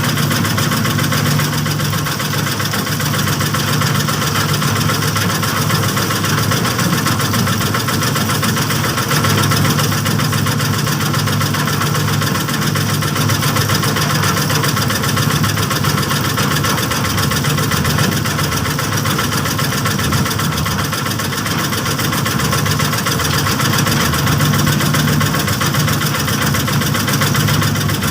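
Small engine of a bored-pile rig running steadily at an even speed.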